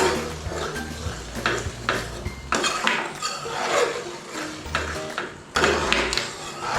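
A utensil stirring thick curry sauce in a pan, scraping and clinking against the pan in an uneven run of strokes.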